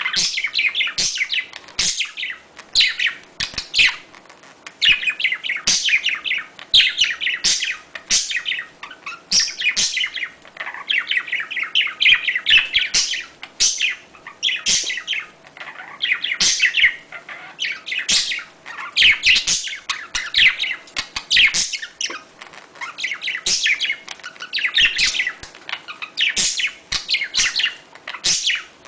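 Budgerigars chattering and warbling in a dense, nearly unbroken run of quick chirps with brief pauses, the courtship chatter played to stimulate budgies to breed.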